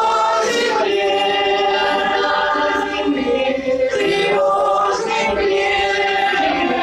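A choir singing a song in sustained held notes, with no break.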